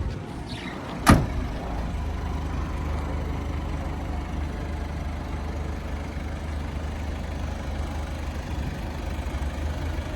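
Mazda Bongo Friendee's 2.5-litre turbo diesel idling with a steady low hum, with a single sharp knock about a second in.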